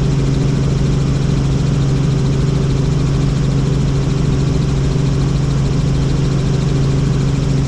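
Helicopter in flight: a steady drone from the rotor and engine, with a strong low hum and several fainter steady tones above it over a broad rushing noise.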